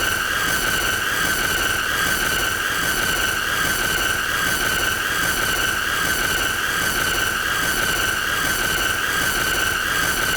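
A continuous shrill, high-pitched tone over a loud hiss, held at one steady pitch with only a slight waver and no breaks.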